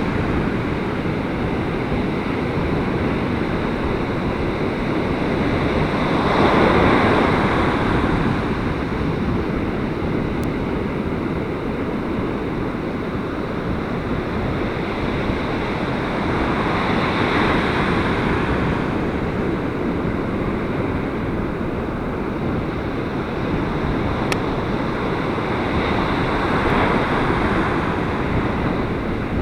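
Ocean surf breaking on a beach in a gale, with strong wind buffeting the microphone and blending with the waves into one steady rush. Three larger waves swell up and fade, about ten seconds apart.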